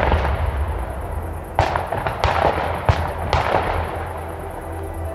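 Fireworks going off: a loud bang right at the start, then four more sharp bangs between about one and a half and three and a half seconds in, each trailing off into a fading hiss.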